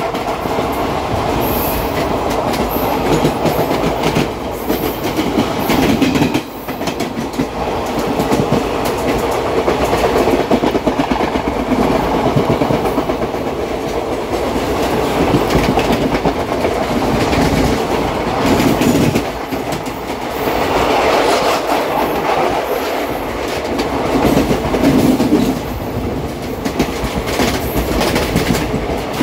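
Express passenger train running along the track: a steady rumble of coach and wheels with the clickety-clack of wheels over rail joints.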